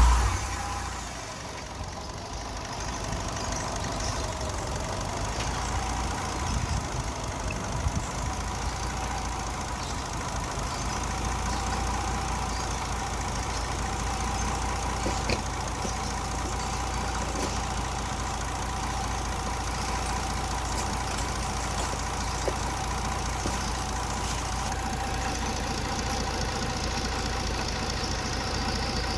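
Mitsubishi Galant ST's V6 engine idling steadily.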